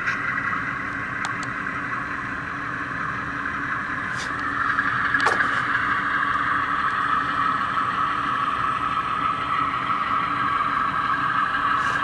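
Model locomotive's Tsunami sound decoder playing the engine sound of a GE diesel, played through the model's small speaker, with a few faint clicks. The engine sound gets louder about four and a half seconds in.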